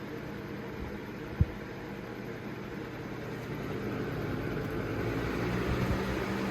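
Galaxy box fan (model 4733) running: a steady rush of air over a low motor hum, getting gradually louder through the second half. One short knock about a second and a half in.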